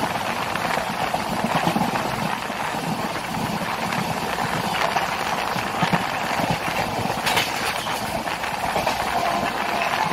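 Passenger train coach heard from onboard: a steady rumble and rattle with irregular low knocks from the wheels on the rails, and a brief sharper rattle about seven seconds in.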